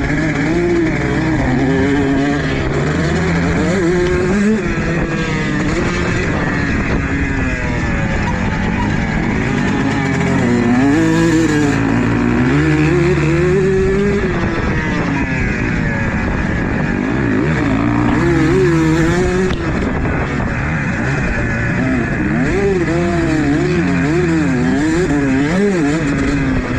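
Motocross dirt bike engine running hard, its revs rising and falling over and over.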